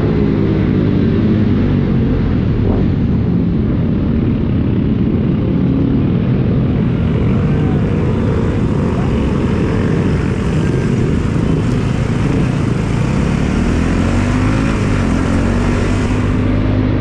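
Bajaj Pulsar NS200 single-cylinder motorcycle engine running while riding, its pitch rising and falling with the throttle, over steady road and wind noise.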